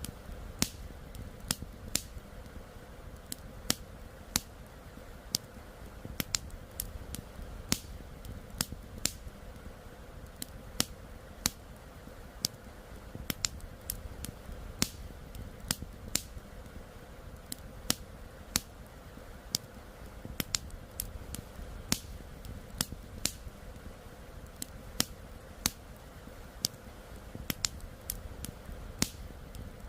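Campfire crackling, with sharp irregular pops and snaps one to three times a second, over a steady low rush of flowing river water.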